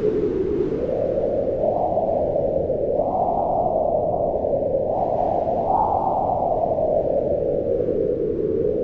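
Strong mountain wind howling in a steady rush, its pitch swelling and sinking in slow gusts, highest about three and six seconds in.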